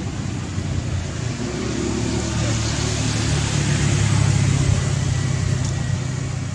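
A steady low engine hum under a noisy hiss, growing a little louder about four seconds in.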